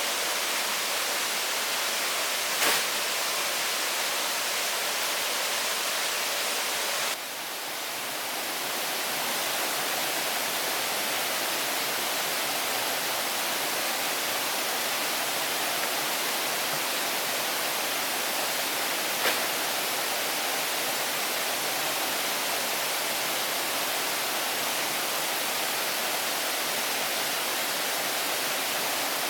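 Steady, even rushing noise with no pitch or rhythm, with a faint click about three seconds in and another about nineteen seconds in. The level dips briefly about seven seconds in and recovers over the next couple of seconds.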